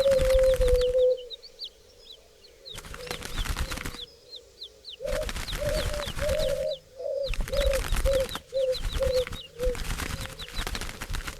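A flock of doves flapping their wings in loud bursts that start and stop sharply. A low coo is held briefly at the start, and a run of short low coos comes about two a second from midway until near the end, with faint high chirps over them.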